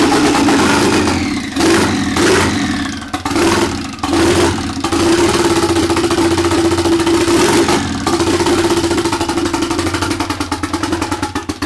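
Freshly rebuilt turbocharged Honda D16Z6 SOHC four-cylinder running loud on its first start. It is blipped and let fall several times in the first five seconds, then held at a steady raised engine speed, as done to break in a new cam.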